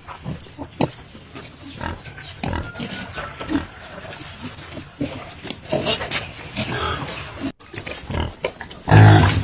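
Duroc pigs grunting in short, irregular bursts, with one loud, low call near the end.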